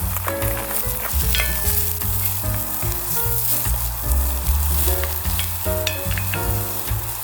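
Food sizzling as it fries, a steady hiss with small crackles, under background music with a melody and bass line.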